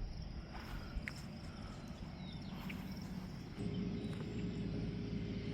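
Outdoor ambience with insects singing steadily at a high pitch and a few faint footstep-like clicks. A low steady hum comes in about three and a half seconds in.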